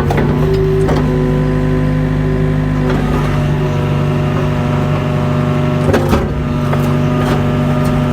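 Mini excavator's diesel engine running steadily under hydraulic load, with a hydraulic whine over it. Several sharp knocks and clanks are heard as the bucket works against broken concrete block.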